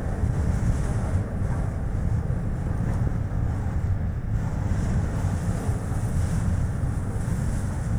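Strong wind buffeting the microphone in a steady, gusting low rumble, over the road noise of a Chevrolet Spark light car driving.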